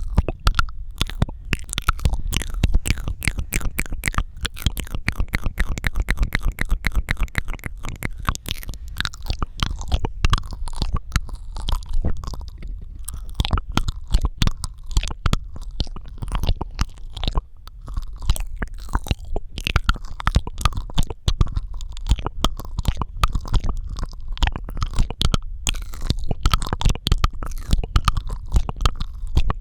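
Rapid, continuous wet mouth sounds made close to a microphone: dense clicking, smacking and popping of the tongue and lips, over a low rumble.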